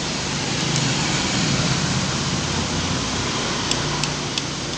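Steady fan-like hiss with a low hum, and three light clicks near the end as small sewing-machine parts are handled.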